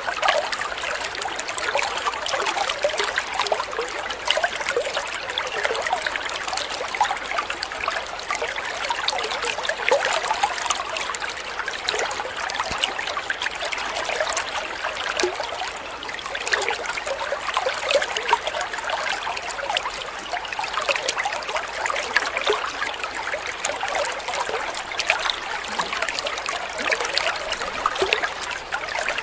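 Shallow water trickling and splashing steadily over stones, a continuous babbling stream.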